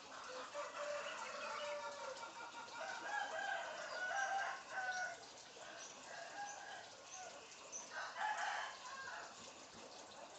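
African grey parrot calling: a run of short whistled and squawky notes that step up and down in pitch, louder in two spells, around four seconds in and again near eight seconds.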